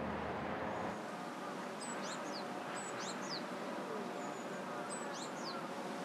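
Outdoor ambience with a steady hiss. A low hum cuts out about a second in. Through it a small bird gives three short bouts of high, thin chirps that drop in pitch.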